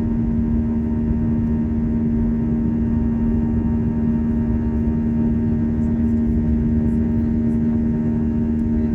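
Steady drone inside an Airbus A321 airliner cabin: its engines running evenly, with a strong steady hum and several fainter tones above it over a low rumble.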